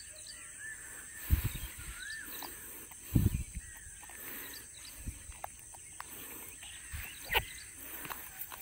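Birds calling in short rising-and-falling whistles over open-field ambience. Two dull thumps come about a second and about three seconds in, and a sharp click comes near the end.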